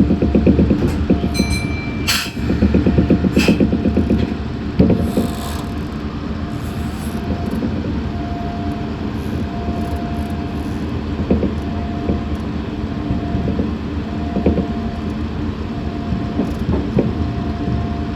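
Meitetsu 6500 series electric train running, heard from inside the car: a fast rhythmic rumble from the wheels and running gear for the first few seconds, a sharp click about two seconds in, then a steadier, slightly quieter running noise.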